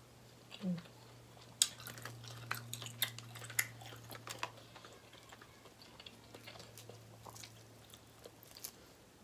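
A person chewing food with their mouth close to the microphone: scattered wet clicks and small crunches at irregular intervals. A faint steady low hum runs underneath.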